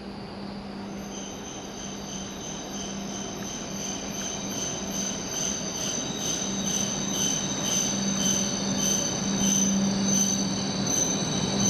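E7 series Shinkansen train pulling into the platform at low speed. A steady low hum sits under high-pitched whining tones that flutter rapidly, and the whole sound grows steadily louder as the train draws near.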